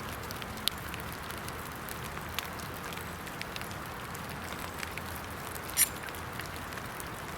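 Steady patter of rain in wet woods, with scattered small ticks and one sharp snap about six seconds in.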